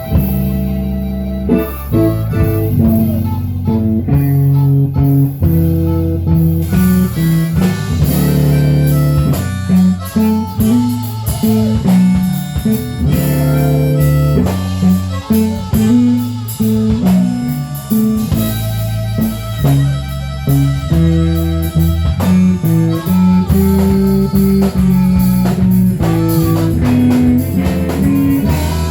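Live electric blues band playing an instrumental passage: harmonica over electric guitar, bass and drums. The band grows fuller about six seconds in.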